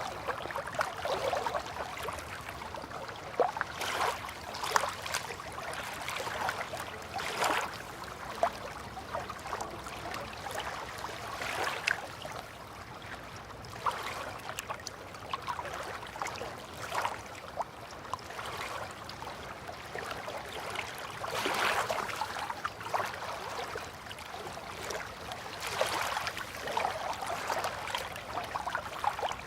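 River water lapping and splashing gently at the bank in small, irregular splashes.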